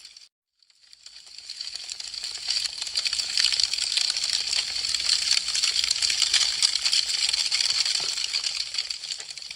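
Wood fire crackling: a dense run of quick sharp crackles and small pops from burning branches. It fades in after a brief silence just after the start and fades down near the end.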